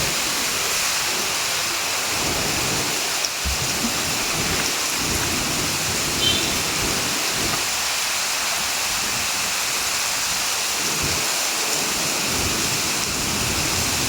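Heavy rain pouring steadily, a dense even hiss with an uneven low rumble underneath. A brief high chirp sounds about six seconds in.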